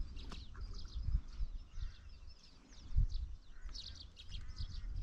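Small birds chirping and twittering again and again, with a couple of low thumps, the louder one about three seconds in.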